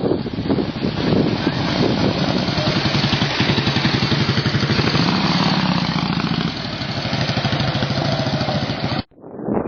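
An engine running close by, steady and evenly pulsing, with a slight change in pitch partway through; it stops abruptly about nine seconds in.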